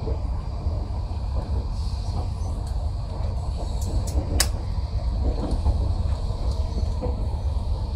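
Steady low rumble of a passenger train running along the track, heard from inside the carriage, with one sharp click about four and a half seconds in.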